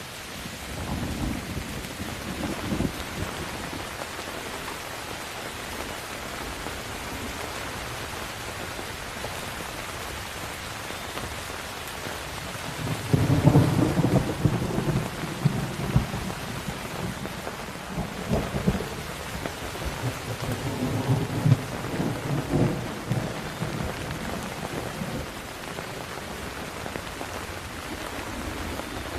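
Steady rain falling, with rolling thunder: a short rumble in the first few seconds, then a louder, longer one that begins a little before halfway and rolls on in several peals for about ten seconds.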